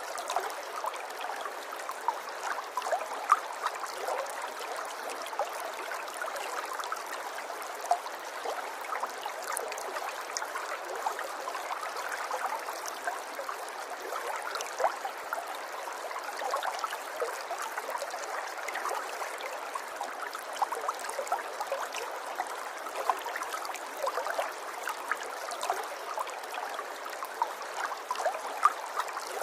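River water running over stones: a steady babble, dotted with small gurgles and plinks.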